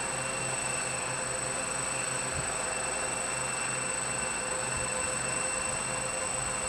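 Quadcopter hovering in place, its four upside-down-mounted brushless motors (Altigator A3540) spinning 14-inch propellers with a steady hum and a few held tones.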